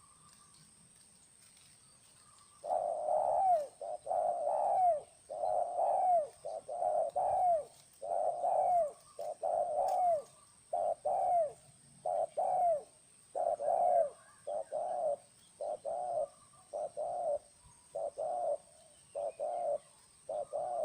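Spotted dove (terkukur) cooing: a long series of low, rhythmic coo notes that starts about two and a half seconds in and keeps going with short gaps.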